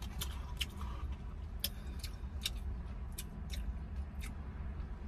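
Close-up mouth sounds of someone chewing a mouthful of ramen noodles: a string of short wet clicks, over a steady low hum inside a car.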